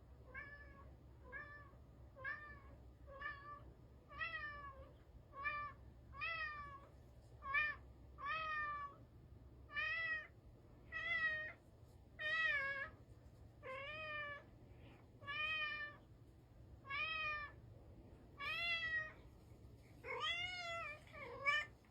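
A cat meowing over and over, about one short meow a second. Each call rises and then falls in pitch, and the meows grow louder and longer as they go on.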